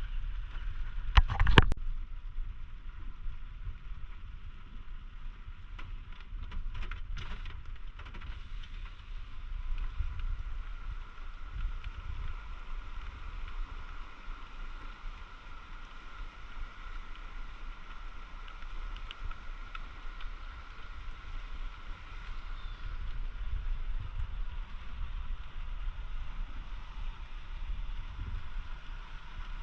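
Steady rushing of floodwater with a low wind rumble on the microphone. A sharp knock comes about a second and a half in, and a few fainter clicks follow a few seconds later.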